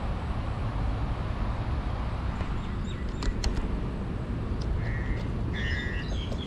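Birds calling in short, quick runs of chirps about five to six seconds in, over a steady low rumble and hiss, with a few faint clicks about three seconds in.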